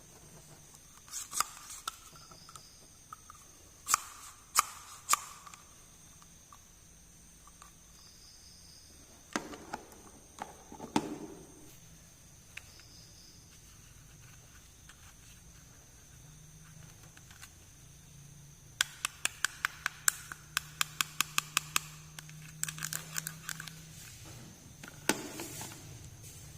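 Small plastic miniature toy pieces being handled close to the microphone: scattered taps and clicks with pauses between them, then a quick run of about a dozen clicks, four or five a second, past the middle.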